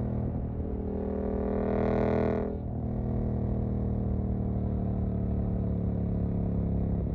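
Suzuki GSX-8S parallel-twin engine with a Jeskap EVO aftermarket exhaust, pulling under throttle and growing louder. About two and a half seconds in the throttle closes and the engine settles to a steady, quieter run.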